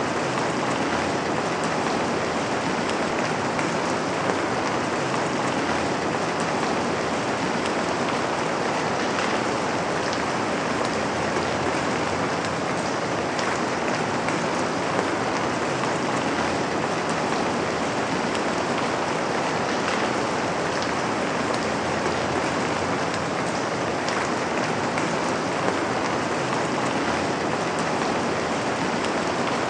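Steady rain falling, an even dense patter of drops with faint individual taps, falling on a window.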